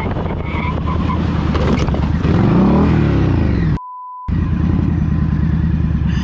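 Motorcycle engine running steadily, with a vehicle sweeping past in a rise and fall of pitch about two to three seconds in. A half-second break holding only a thin steady beep falls just before the middle.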